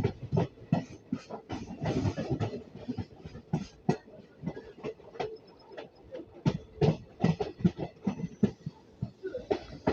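Train wheels clattering over rail joints: an irregular run of sharp clicks and knocks, with a denser rattle about two seconds in.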